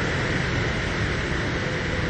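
Strong gusting wind blowing across the microphone, a steady rushing noise with a heavy low rumble, with surf beneath it.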